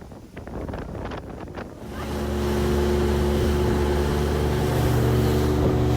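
A few faint knocks and rattles, then about two seconds in a boat engine running steadily at a constant speed.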